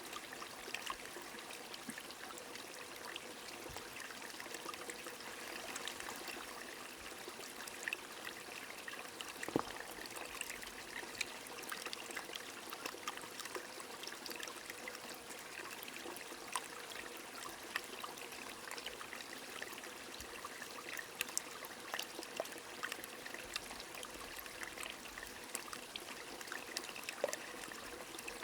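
A small stream flowing steadily while rain falls, with many scattered drops ticking through the rush of water and one sharper drop about nine seconds in.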